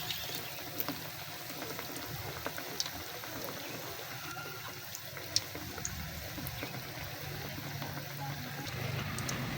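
Chicken cooking in a pan: a steady bubbling hiss with a few sharp pops scattered through it, the loudest about five seconds in.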